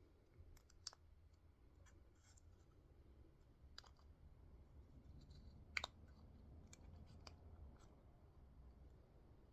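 Near silence with a few faint, sharp clicks and taps of small parts and tools being handled while a carburetor is taken apart; the loudest click comes about six seconds in.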